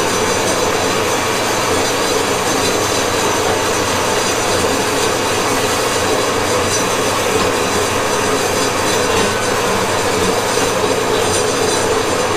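Power tool cutting into metal, running steadily under load with a continuous harsh noise.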